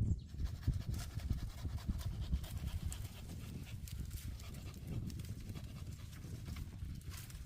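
Hand saw cutting wood in quick, uneven back-and-forth strokes, sped up to double speed.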